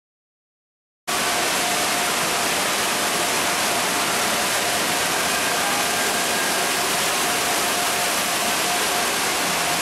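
Steady rushing water, a loud even hiss that cuts in suddenly about a second in, with a faint steady tone beneath it.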